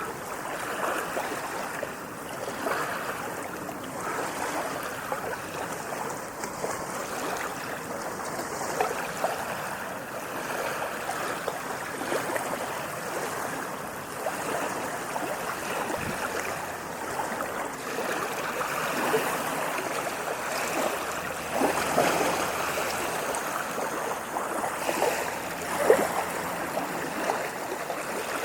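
Small waves lapping and splashing continuously, with one louder splash near the end.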